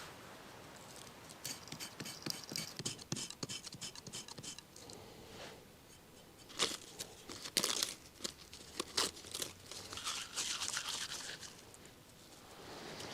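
Dry twigs and tinder being handled, broken and crumpled by hand: a run of small crackles, then a few sharper snaps, and a short scraping hiss near the end.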